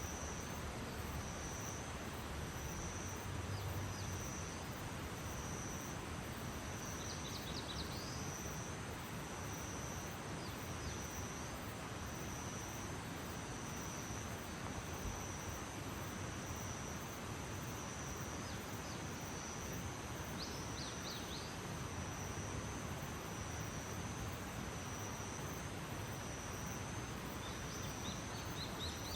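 Early-morning outdoor ambience: a steady, high-pitched insect trill that swells and fades in a slow pulse, over a constant background hiss. Short bursts of bird chirps come about seven seconds in, again around eleven and twenty seconds, and near the end.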